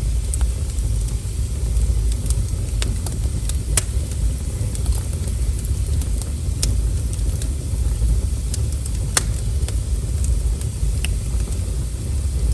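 Wood fire burning with a steady low rumble of flames, broken by irregular sharp crackles and pops from the burning wood, two of them louder, about four and nine seconds in.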